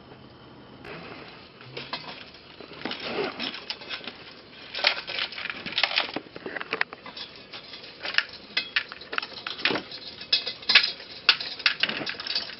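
Irregular, rapid metallic clicks and clatter of hand tools and car parts being handled, starting about a second in.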